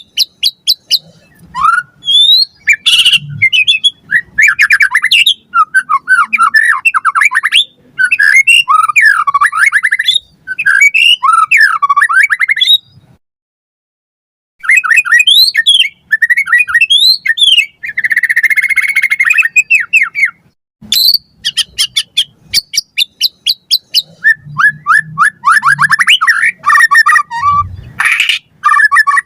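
White-rumped shama (murai batu) singing loudly in rapid, varied bursts of whistles, sweeping notes, trills and chattering phrases, with one short pause about halfway through.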